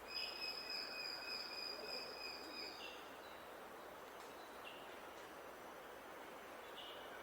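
A bird calling on one steady high note with overtones for about three seconds over an even outdoor hiss, then a few short faint chirps.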